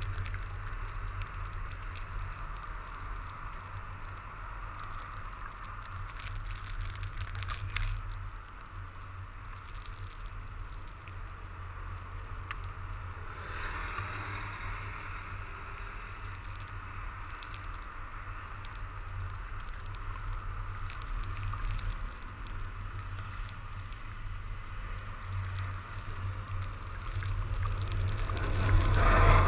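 Fat bike with wide tyres riding through snow and slush: steady tyre noise over a low rumble, growing louder near the end.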